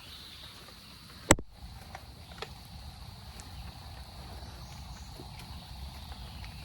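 Forest insects droning on one steady high pitch over a low rumble on the microphone. A sharp click about a second in is the loudest sound, followed by a couple of fainter taps.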